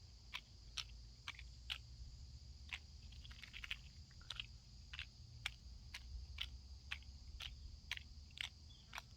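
Short, sharp clicks repeating about twice a second, over a faint steady high-pitched insect drone.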